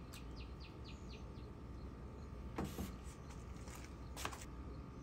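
A bird gives a quick series of short, falling chirps in the first second and a half, over a steady low rumble. Two brief handling noises follow, one about halfway through and one near the end, as a wooden serving board is moved.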